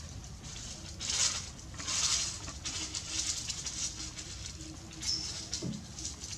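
Breathy, hissing sniffles about one and two seconds in, then a short low crying whimper near the end, from a young animal with a cold and a running nose.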